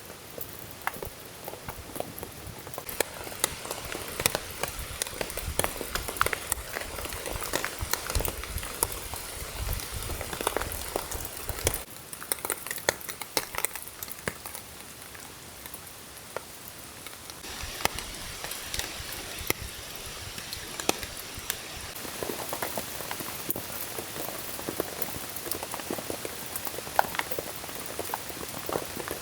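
Rain falling, with many sharp ticks of drops striking a surface over a steady hiss; the sound shifts abruptly a few times.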